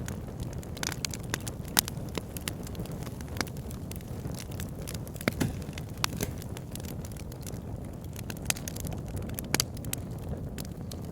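Wood fire burning in a log burner: irregular sharp crackles and pops over a steady low rumble of the flames.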